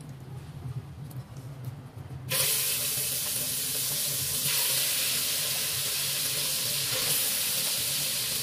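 Butter sizzling quietly in a hot wok, then a sudden loud sizzle about two seconds in as chicken wings are laid into the fat, holding strong as more wings go in.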